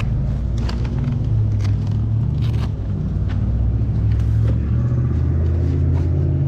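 Steady low rumble of a car, with a few light clicks and rustles on top.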